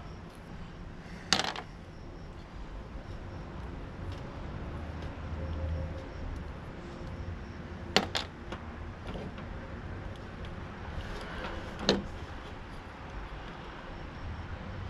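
Small metal parts clinking as they are dropped or set down on a hard surface: three sharp clinks, about a second and a half in, a quick double near eight seconds, and another near twelve seconds.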